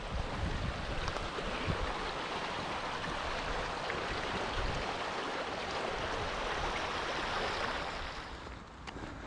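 Steady rush of flowing stream water, which fades away near the end.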